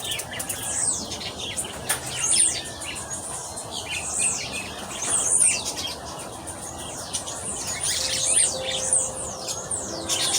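Small birds chirping, many quick high chirps that fall in pitch, one after another.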